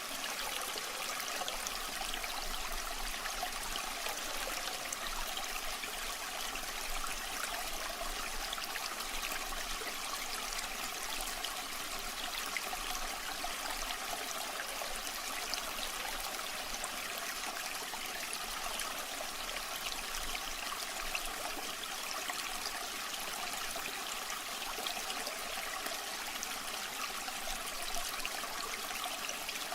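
Waterfall water running and splashing steadily: an unbroken rushing hiss, stronger in the high end than in the low, flecked with small splashes.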